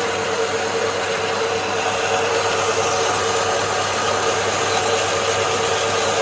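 A metalworking machine running steadily with a constant hum, cutting or facing short lengths of tube to size.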